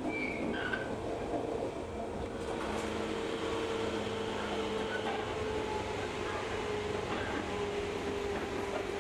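Local train running on the rails, heard from inside the car: a steady rumble of wheels and running gear, with a whine that drifts slowly lower in pitch through the second half.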